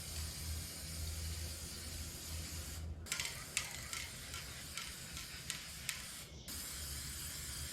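Paint being sprayed onto a tractor fuel tank: a long, steady hiss, a pause about three seconds in with a few sharp clicks, then the hiss again near the end.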